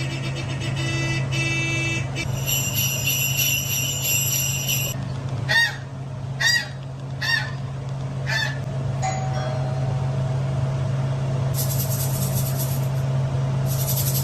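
A run of played-back sound effects over a steady low hum: high squeaky tones first, then four short calls about a second apart, then bursts of high hiss near the end.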